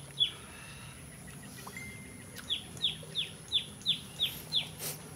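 A bird calling outdoors: a series of short, sharp whistled notes, each falling in pitch, two near the start and then a run of seven at about three a second.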